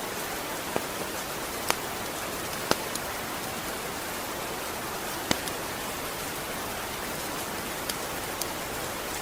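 Steady rain falling, an even hiss with a few louder single drops ticking on a hard surface now and then.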